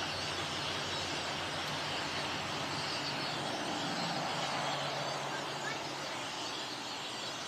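A dense, unbroken din of many birds calling at once, with a low engine hum that fades out about six seconds in.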